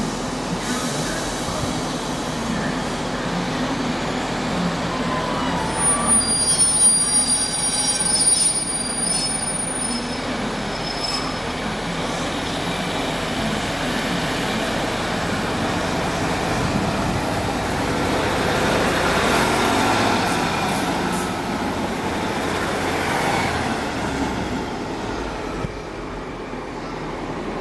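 Diesel multiple unit running slowly into the platform, its engine and wheels making a steady rumble. High-pitched wheel squeals ring out for a few seconds about six seconds in, and the rumble swells as the train passes close.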